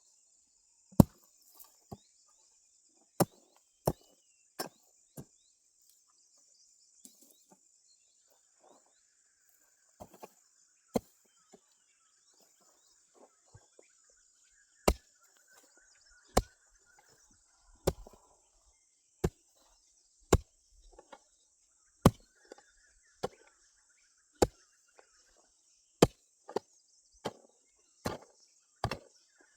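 A hand tool striking again and again, one sharp chop every second or two at an uneven pace, over a steady high insect drone.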